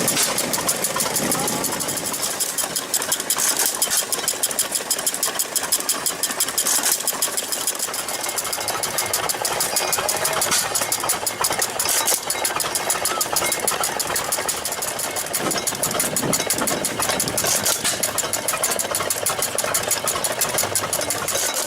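Antique gas engines running, a steady, rapid clatter of many even knocks.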